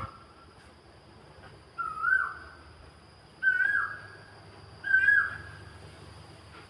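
An animal calling three times, about every one and a half seconds: each call a short whistled note that rises, holds, then drops off sharply.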